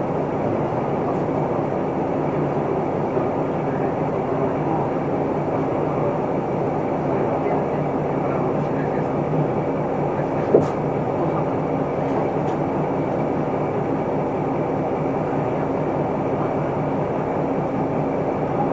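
Steady running noise inside an Isuzu Erga Mio city bus: its four-cylinder diesel engine and road noise, heard from the passenger cabin. A single sharp click or rattle sounds about ten seconds in.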